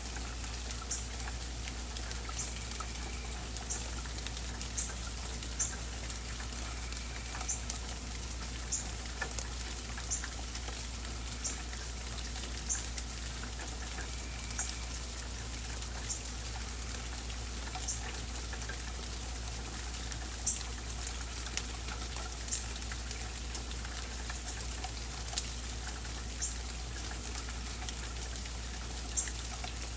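Steady rain falling, with scattered sharp drips and a short high tick repeating about once a second.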